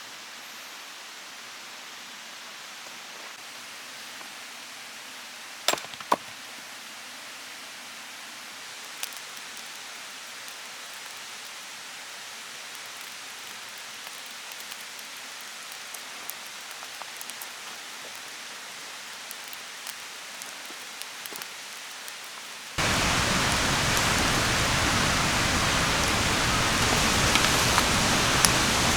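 Wood campfire crackling faintly, with a steady low hiss and a few sharp snaps. About 23 seconds in, a much louder, even hiss sets in abruptly, with a few more snaps near the end.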